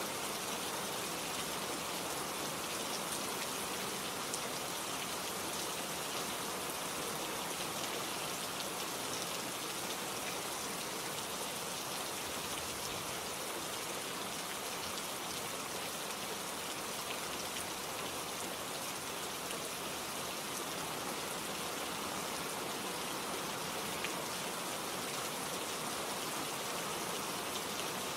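Steady rainfall with scattered drops pattering on leaves and surfaces.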